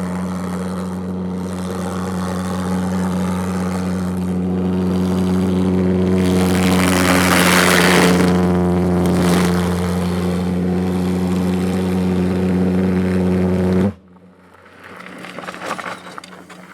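Twin Viper pulsejet engines running on diesel, a loud, steady, deep buzzing drone with many overtones, swelling and growing hissier about halfway through as the kart drifts. The drone cuts off abruptly near the end, leaving only faint outdoor noise.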